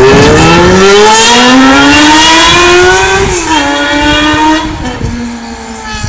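Honda CBR400R motorcycle exhaust under hard acceleration, engine pitch climbing steadily, then dropping sharply at an upshift about three seconds in. It then pulls on in the next gear and fades as the bike moves away.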